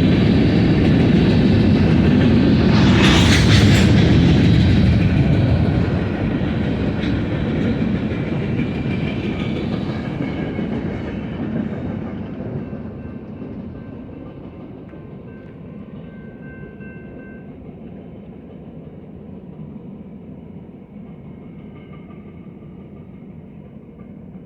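Freight train cars rolling past on the rails, loud at first, then fading steadily over about ten seconds as the train moves away. A brief harsh burst of high noise sounds about three seconds in.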